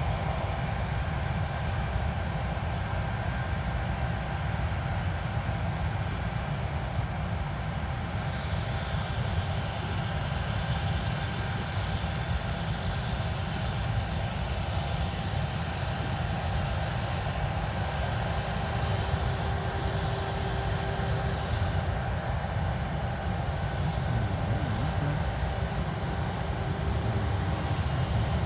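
Airbus A321's jet engines running at taxi power, a steady rumble with a high, even whine over it.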